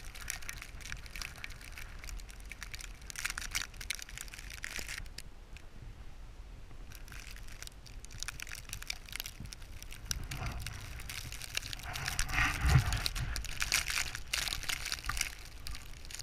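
Footsteps crunching through snow, pausing for a few seconds in the middle, over a low rumble of wind on the microphone.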